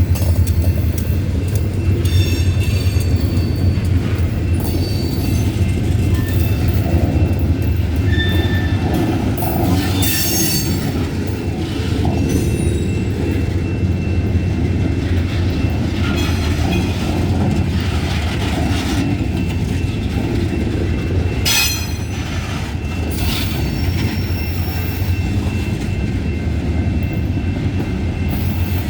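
Freight train rolling past: a steady low rumble of railcars with high-pitched wheel squeal that comes and goes and a few sharp clanks.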